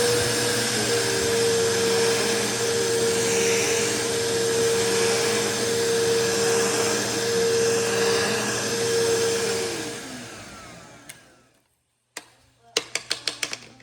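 Bissell PowerForce bagless upright vacuum running steadily with a high whine, then switched off about ten seconds in, its motor winding down to silence. Near the end, a quick run of sharp clicks and knocks.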